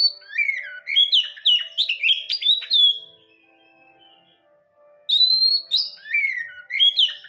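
Oriental magpie-robin singing: a quick run of varied, sliding whistled notes, a pause of about two seconds, then another burst of song near the end.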